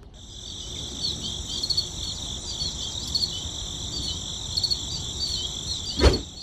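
Insects chirping steadily in a high-pitched chorus, with one sharp knock about six seconds in.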